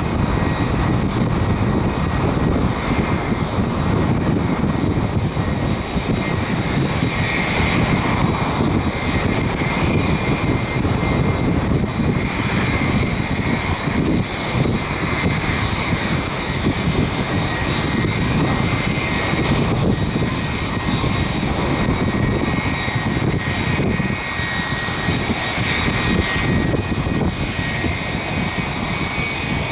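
Boeing 777-200 twin jet engines during landing: a steady, loud rumble with a high whine of fan tones held throughout.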